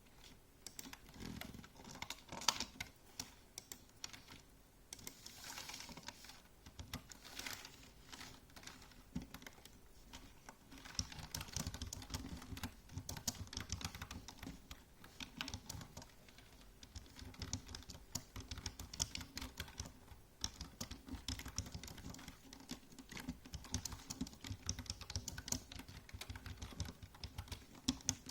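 Typing on a computer keyboard: fast runs of key clicks in bursts, with brief pauses between them.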